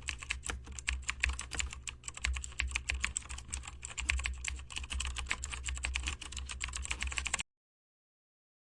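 Rapid typing on a computer keyboard, a dense run of irregular keystroke clicks over a low steady hum. Both cut off suddenly about seven seconds in, leaving silence.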